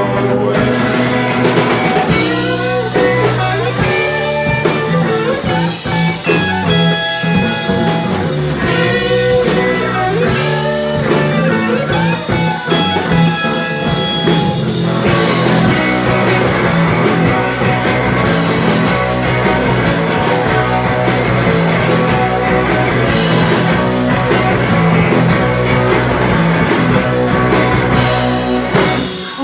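Psychedelic rock band playing an instrumental jam: electric guitar lines over bass and drum kit, the sound growing denser about halfway through.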